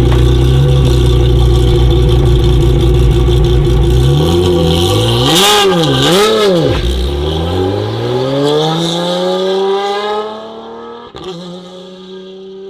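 Lotus Emira GT4 race car's 3.5-litre supercharged V6 idling steadily. Its throttle is blipped a few times about halfway through, then the revs climb in one long rise. The sound turns much quieter near the end.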